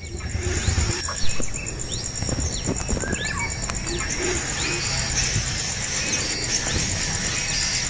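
Birds chirping in short, quick calls, with a steady high, rapidly pulsing insect trill behind them.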